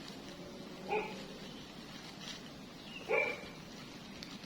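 Two short animal calls about two seconds apart, each a brief pitched yelp.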